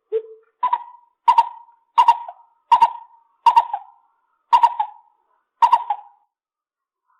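Lesser coucal calling: one low hoot, then a series of seven hollow, evenly spaced notes, a little under one a second.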